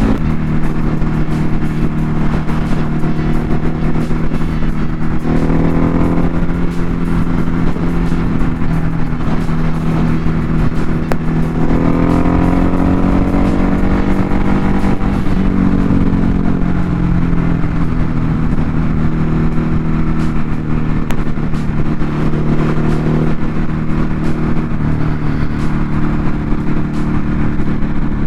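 Ducati Hypermotard 950 RVE's L-twin engine running steadily at highway speed, with wind rushing past. About twelve seconds in the revs climb for a few seconds, then settle back.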